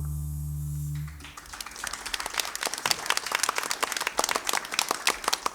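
The jazz piano trio's final low note rings and stops about a second in, then a small audience applauds with many separate hand claps.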